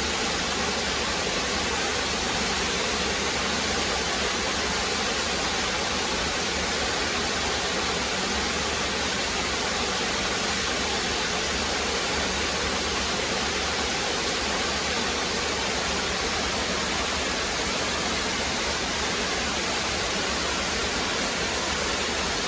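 Rocky brook rushing steadily over and between stones, a constant full splashing rush with no breaks.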